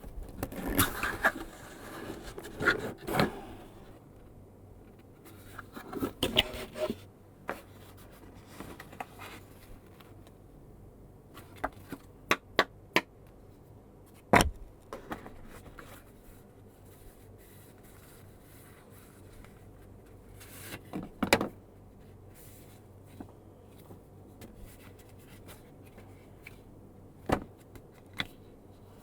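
Cardboard lens box being handled and its flap opened: bursts of scraping and rustling of card between quiet stretches, with scattered small clicks and taps and one sharper knock about fourteen seconds in.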